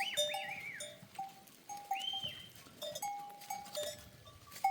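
Bells worn by a herd of goats and sheep clanking irregularly as the animals move, with a few short high calls.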